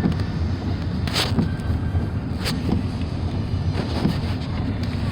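Steady low rumble of a vehicle driving, with wind buffeting the microphone and a couple of brief knocks, about one second in and again about two and a half seconds in.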